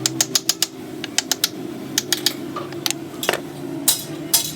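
Short runs of quick, sharp clicks, several a second, over a steady low hum.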